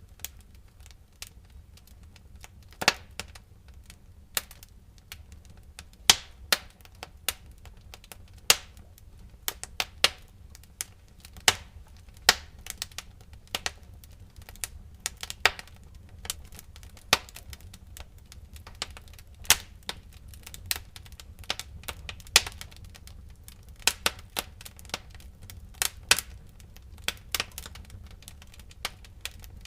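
Wood fire crackling in a fireplace: irregular sharp pops and snaps, sometimes several in quick succession, over a low steady rumble.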